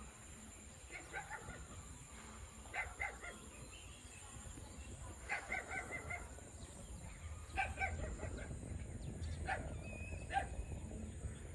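Animal calls in short bursts of three or four quick notes, repeating every couple of seconds over a steady low rumble.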